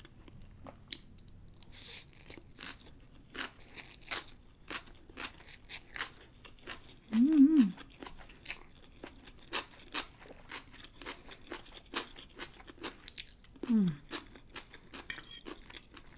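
A person chewing pancit bihon rice noodles with pork, with a run of wet mouth clicks and smacks. A short hum of enjoyment comes about seven seconds in and another, falling, near fourteen seconds.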